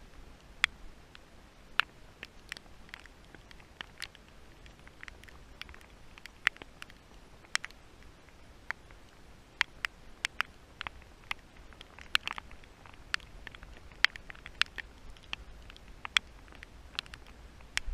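Raindrops striking close by as irregular sharp ticks, a few a second, over a faint steady hiss of light rain.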